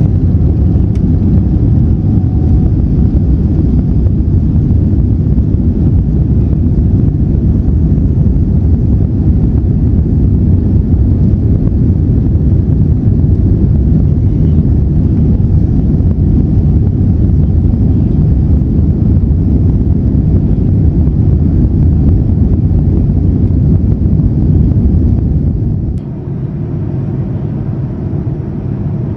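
Airliner jet engines heard from inside the cabin: a loud, steady low rumble that drops suddenly in level near the end.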